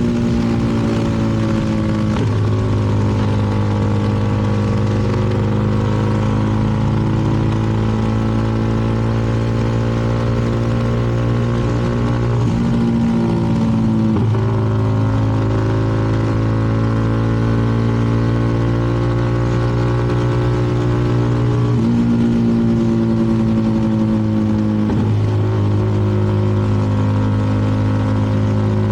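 CFMoto 300NK's single-cylinder engine running at steady road revs, heard from the bike itself. Its pitch breaks and steps to a new level a few times: about two seconds in, twice around thirteen to fourteen seconds, and again near twenty-two and twenty-five seconds.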